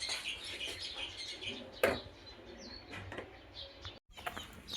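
Small birds chirping repeatedly, with a single sharp knock about two seconds in. The sound cuts out for a moment just after four seconds.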